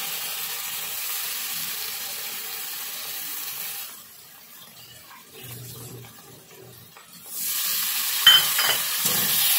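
Spiced potato, onion and tomato masala sizzling in oil in a metal kadai. The sizzle drops away for about three seconds in the middle, then comes back, with a couple of sharp metallic clinks of the spatula against the pan near the end.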